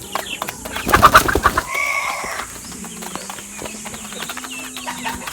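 Young heritage chickens clucking and calling while they feed, over a run of short clicks and taps. The clicks are loudest about a second in, and a short call follows around two seconds.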